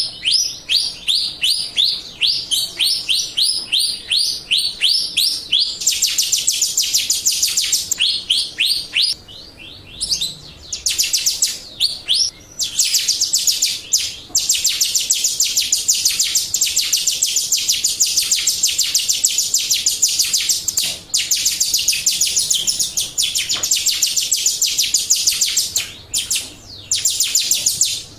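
Jalak rio starling singing a fast, high-pitched chattering song: first a quick run of repeated falling notes, then a dense rapid chatter with only a few short breaks. It is a lure song meant to prompt caged birds to answer.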